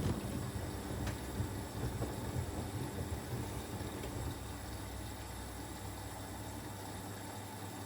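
Siemens Extraklasse XLS 140 A front-loading washing machine tumbling a wet load in its drum, with a low, uneven rumble and slosh over a steady hum. The churning dies away about seven seconds in as the drum comes to rest.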